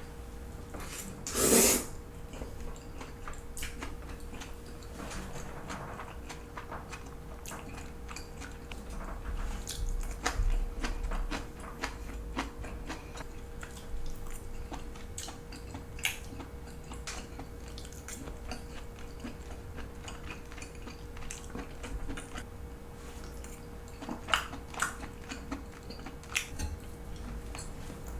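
Cutlery clicking against a plate now and then while someone chews and eats pasta, with one louder clatter about a second and a half in and a few sharp clinks near the end, over a faint steady hum.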